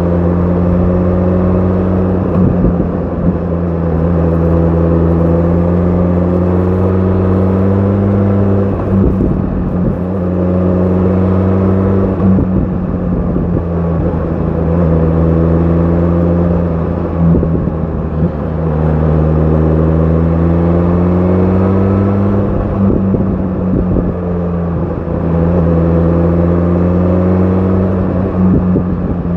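BMW S1000 RR's inline-four engine with an Akrapovic exhaust under way: the engine note climbs slowly in pitch, then drops sharply at each gear change, several times over.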